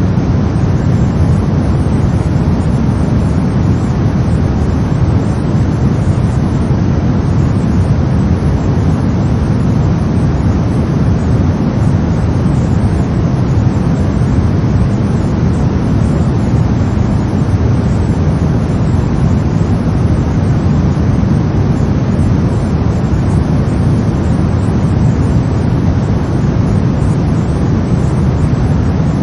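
Brown noise: a steady, deep rumbling hiss with most of its weight in the low end and no changes or events.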